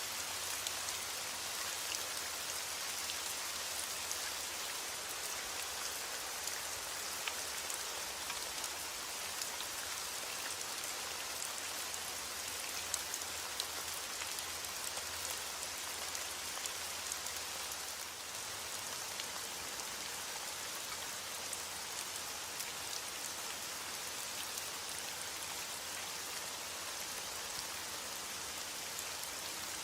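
Steady rain falling, a dense even hiss with fine ticks of individual drops hitting a surface.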